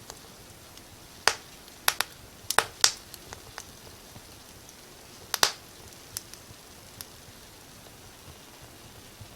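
Wood fire crackling: sharp pops and snaps at irregular intervals over a faint steady hiss, with a flurry of the loudest snaps between about one and three seconds in and another single loud pop about five and a half seconds in.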